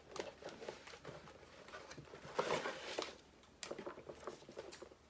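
Plastic bags of Lego pieces being handled: crinkling and rustling with light clicks, loudest about two and a half seconds in.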